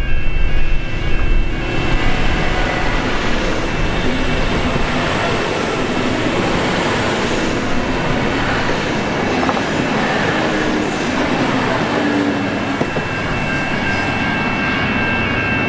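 A train running past, with a heavy rumble in the first second or so, then steady rail and wheel noise. Steady pulsing ringing tones, typical of a level-crossing bell, are drowned by the train and come back near the end.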